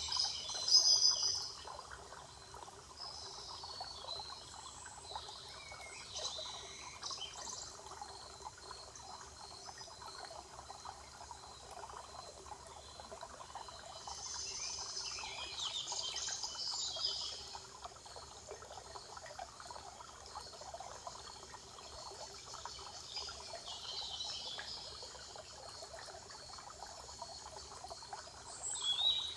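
Songbirds singing in a spring forest over a steady trickle of running water. The loudest bird phrase comes about a second in, with a longer spell of song midway and more calls near the end.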